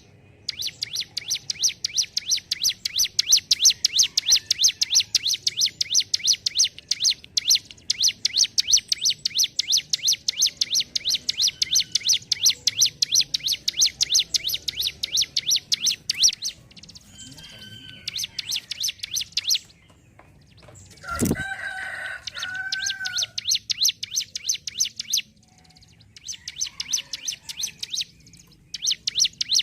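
Ciblek gunung (a prinia) singing in long runs of fast, rapidly repeated high notes, a rattling 'ngentrok' trill, with brief pauses between runs. About two-thirds of the way through, a thump and a short, lower wavering call cut in.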